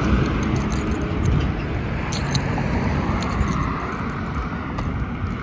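Road vehicle noise: the low rumble and tyre hiss of a car, slowly fading, with a few faint clicks.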